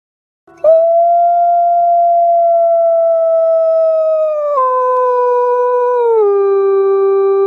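A single wolf howl. After a brief silence it starts about half a second in, swoops up and holds one long steady note, then drops lower twice in distinct steps and is still sounding at the end.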